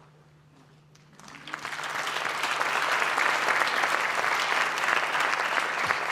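Audience applauding, starting about a second in and swelling quickly to a steady, full round of clapping.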